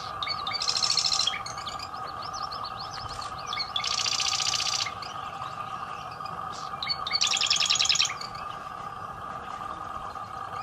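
Songbird singing three loud, rapid, high trilled phrases about three seconds apart, with other birds chirping softly in between over a steady hum.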